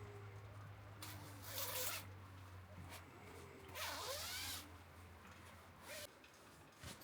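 A zipper being pulled in two strokes, each about a second long, with a shorter tug near the end. A steady low hum underneath stops about six seconds in.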